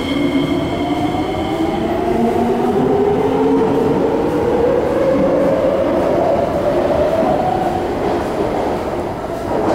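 SMRT C751B electric train running in toward the station: a steady rumble of wheels on the track, with an electric whine that rises slowly in pitch over several seconds and then fades.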